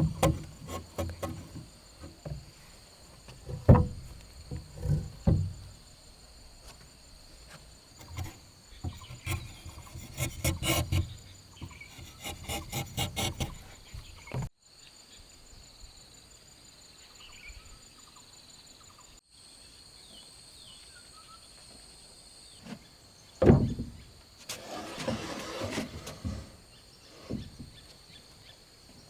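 Intermittent knocks and scraping of wooden parts being worked and handled, with a louder knock near the end. Insects chirr steadily throughout.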